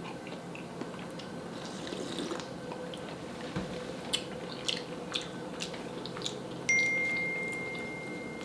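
Soft clicks and wet mouth sounds of eating, then about two-thirds of the way in a single clear ringing note that starts suddenly and fades slowly, like a struck glass or a chime.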